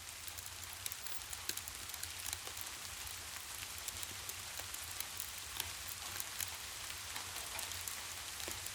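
Steady rain falling, an even hiss scattered with many small sharp ticks of drops, over a low steady rumble.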